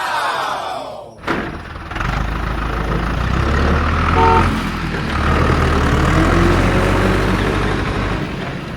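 A vehicle engine running with a steady low drone, coming in suddenly a little after a second, after a brief falling sweep at the start. A short pitched tone sounds around four seconds in.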